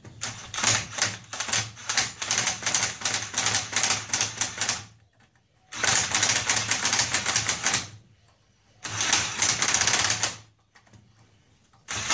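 Powered screwdriver spinning the worm screw of a large Jubilee hose clip, with the screw rattling rapidly through the band as the clip closes down. It comes in bursts: a long one of about five seconds, two shorter ones with brief pauses between, and another just starting at the end.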